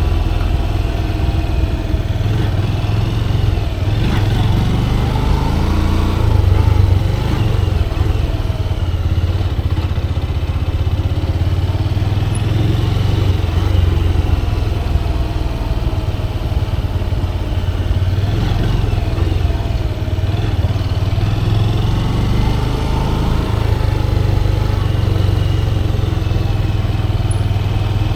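Motorcycle engine running during a ride: a steady low drone, with a higher tone that rises and falls now and then as the revs change.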